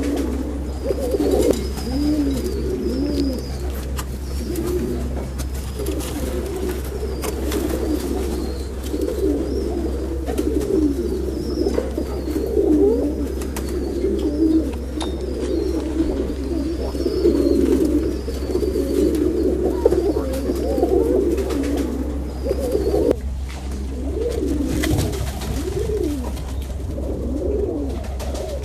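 Pigeons cooing over and over, several overlapping calls, with faint thin chirps of a small bird above them during the first half. A steady low hum runs underneath.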